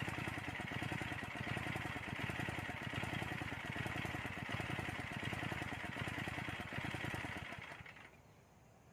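Engine of a motorized soil tiller running steadily with a rapid, even pulse, dying away near the end.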